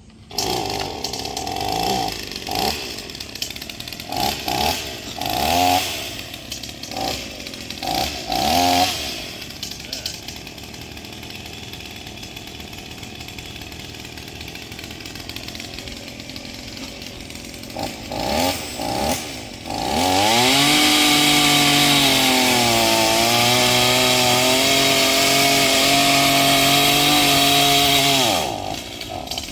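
Gas chainsaw revved in short blips with rising pitch, then ticking over more quietly. From about two-thirds of the way in it runs loud at full throttle for about eight seconds, its pitch sagging briefly as the chain bites into the trunk, then cuts off near the end.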